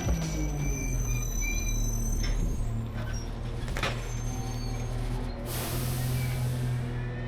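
Rear-load garbage truck running, a steady engine hum, with a single knock about four seconds in and a burst of hiss a little past halfway.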